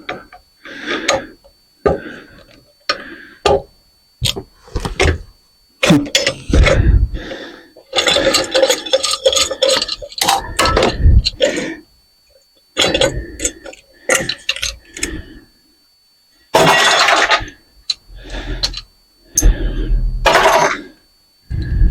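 Metal parts of a ceiling fan clanking, clinking and scraping as the fan is taken apart for scrap. The sound comes in irregular bursts, with a few longer scraping stretches and heavier knocks.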